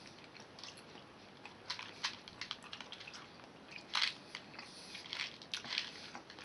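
A person chewing a chewy Tootsie Roll close to the microphone: irregular wet mouth clicks and smacks, a few louder ones about two and four seconds in.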